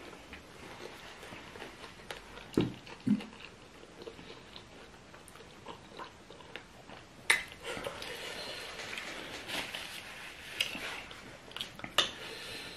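Close-up eating sounds: chewing and biting on chicken feet in pepper soup, with a few sharp clicks and two dull thumps a half second apart about two and a half seconds in.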